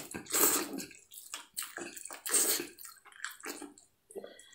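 Wet chewing and lip-smacking as a mouthful of tender stewed tail meat is bitten off and eaten: a run of short, irregular wet smacks, with the loudest about half a second in and again midway.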